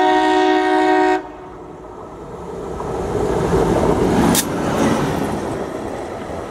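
Indian Railways locomotive's horn sounding a loud multi-tone chord that cuts off about a second in, then the locomotive and its train approaching and passing at speed. The noise builds to a peak with a sharp crack about four seconds in, then settles into the steady rumble of the passing train.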